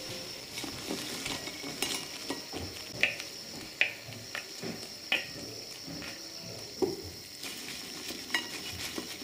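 Small battered fish frying in a wok of hot oil with a steady sizzle, on their second fry to make them extra crisp. A metal slotted skimmer and chopsticks scrape and clink sharply against the wok several times as the fish are lifted out.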